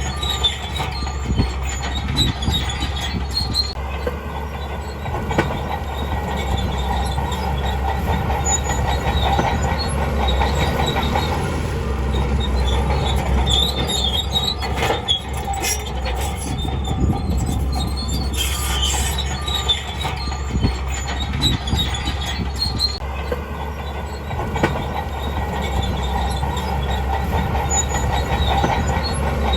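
Shantui DH17C2 crawler bulldozer working, its diesel engine running steadily under a continuous rumble while the steel tracks squeal and clatter as it moves.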